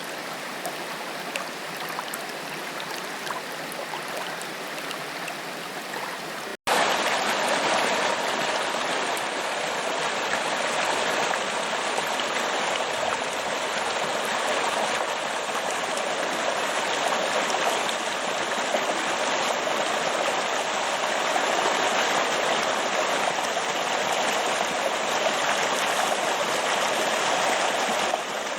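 Steady rush of a forest waterfall, an even hiss of falling water. About six and a half seconds in the sound drops out for a split second and returns louder and fuller.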